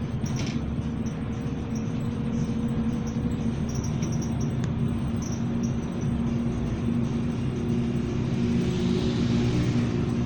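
MAZ-206 city bus with its Mercedes-Benz OM 904 LA four-cylinder turbodiesel running, heard from inside the cabin as a steady engine hum over road noise. A hiss swells near the end.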